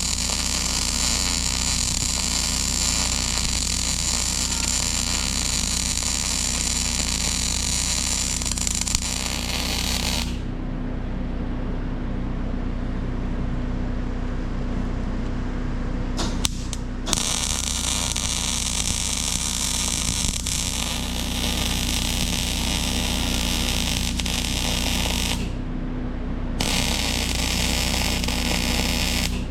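Electric arc welding on a John Deere 450 dozer blade's tilt-cylinder mount: a steady hiss from the arc. It stops about ten seconds in, flickers on briefly around sixteen seconds, then runs again, with a one-second break near twenty-five seconds, as beads are laid. A steady low hum runs underneath.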